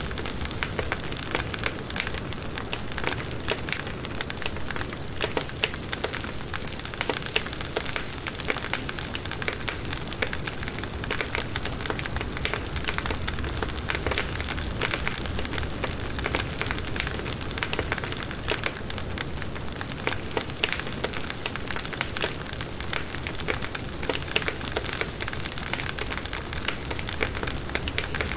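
Firewood burning in a campfire: a steady, dense crackling with many small pops over a low rumble.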